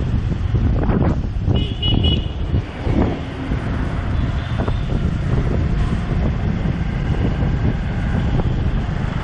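Wind buffeting the microphone and the rumble of motorbike and car traffic, heard from the back of a moving motorbike taxi. About two seconds in a vehicle horn gives a short beep.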